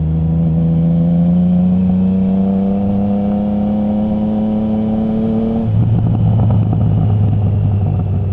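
Triumph Trident 660's inline three-cylinder engine through a baffle-less Zard stainless full exhaust, pulling with its pitch slowly rising for about six seconds, then dropping suddenly to a lower, rougher note.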